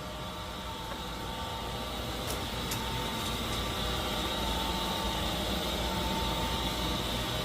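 A steady mechanical hum with a faint whine, slowly growing louder.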